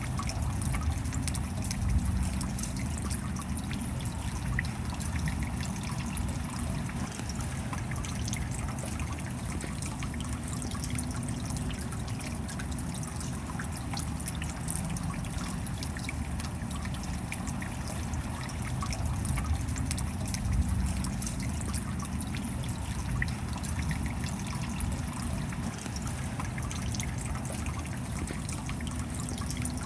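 Steady rainfall, a dense patter of drops with trickling and dripping water and a low rumble underneath.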